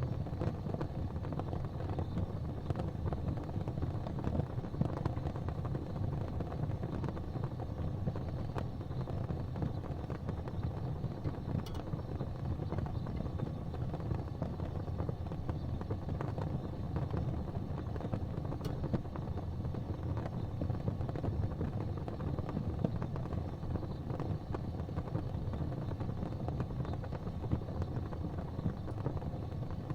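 Gas fireplace flames burning with a steady low rumble and a fine, faint flicker, plus a couple of soft ticks.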